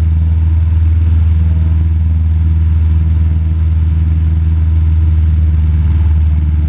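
Cessna 172 Skyhawk's engine and propeller droning steadily in cruise flight, heard inside the cabin as a loud, even low hum.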